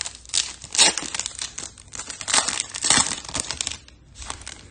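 Crinkling and rustling of trading card pack wrappers and chromium cards being handled, in a series of irregular crackles and scrapes that grow fainter near the end.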